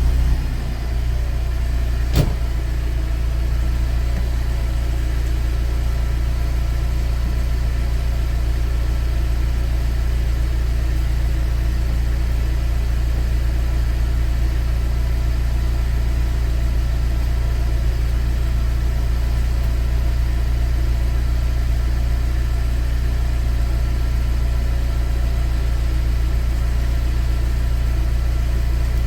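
Mercedes-Benz W204 C200's four-cylinder engine idling steadily through an aftermarket FOX quad-tip exhaust, a low, even rumble with no revving. A single sharp click about two seconds in.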